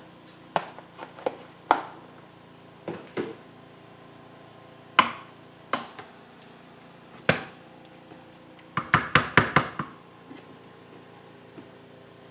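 Cooking utensil knocking and scraping in the pressure cooker's pot while cheese is stirred into beef and macaroni: scattered sharp knocks, then a quick run of about half a dozen taps near the middle.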